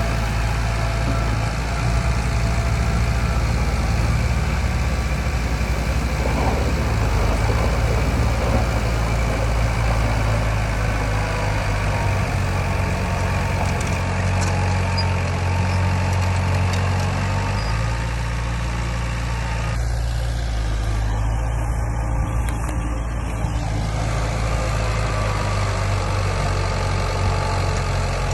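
Heavy earthmoving machine's diesel engine running steadily, its low drone shifting slightly in pitch partway through as the load changes.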